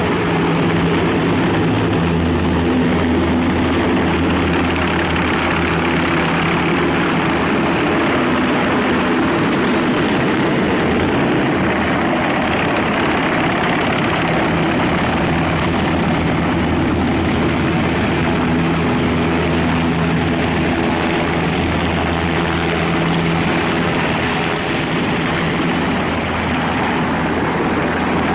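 Helicopter rotor and turbine engine running steadily and loud, with a thin high whine above the rotor noise.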